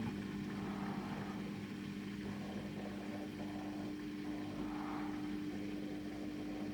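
Samsung WW900 washing machine's drum motor running with a steady hum of two held low tones as the drum turns during the Super Speed rinse.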